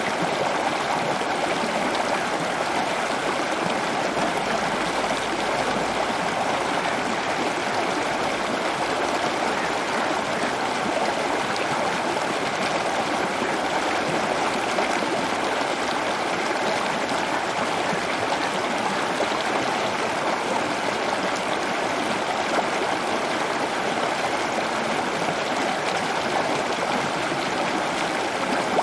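Steady running water, like a stream, rushing evenly without a break.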